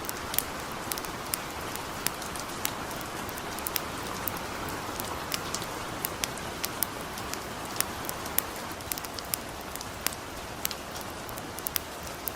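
Light rain falling steadily as an even hiss, with the irregular sharp crackles of a wood campfire, a few each second.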